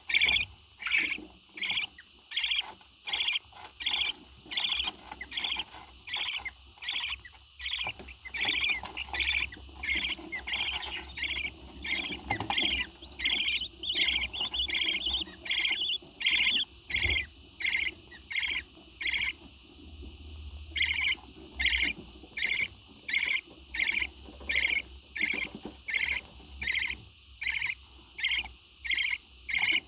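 A parrot chirping: short, high calls repeated in a steady rhythm, about two a second, with a brief pause about two-thirds of the way through.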